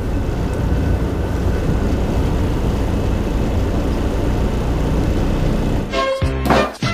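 Steady low rumble of a vehicle heard from inside a truck cab. About six seconds in, music cuts in over it.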